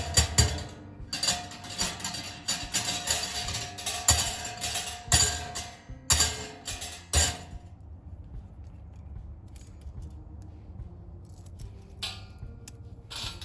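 Thin metal parts of a folding Picogrill-style fire pit clanking and clinking as they are handled, a dense run of knocks for about seven seconds, then two separate clanks near the end.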